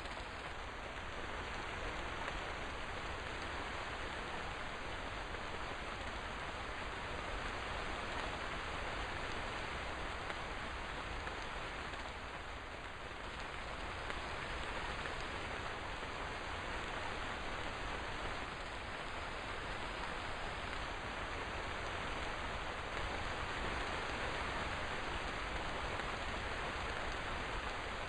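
Steady rain falling, an even hiss of many drops without distinct patters or thunder, dipping slightly about halfway through.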